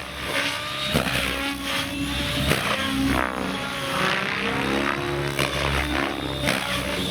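Electric T-Rex 700X RC helicopter flying 3D aerobatics: its rotor blades whoosh and chop over the whine of the motor and drivetrain, the pitch sweeping up and down again and again as it changes direction. There are sharp blade chops about a second in and again about two and a half seconds in.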